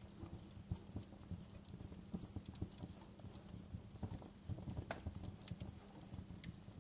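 Wood fire crackling in a fireplace: a dense, irregular run of small pops and snaps, with a few sharper cracks standing out.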